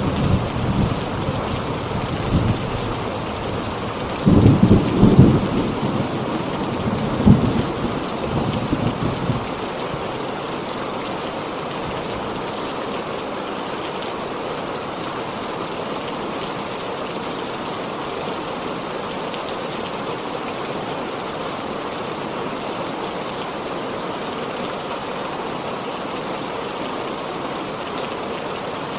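Heavy rain falling steadily, with rolling thunder rumbling through the first several seconds, loudest about four to five seconds in and again with a sharper peak around seven seconds, before it dies away and only the even hiss of the rain remains.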